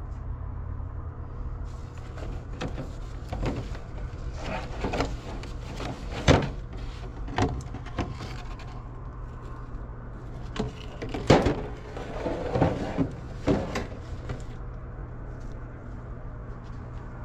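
Objects being handled and rummaged through: scattered knocks, clunks and rustling, with two sharp knocks standing out, over a steady low hum.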